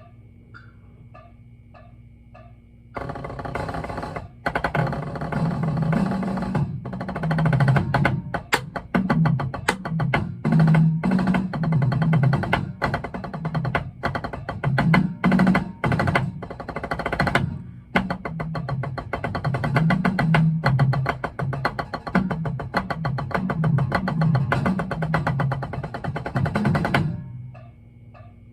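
A metronome ticking steadily, then about three seconds in a fast drum-corps percussion part played on drums: dense, rapid strokes stepping among several drum pitches, stopping shortly before the end.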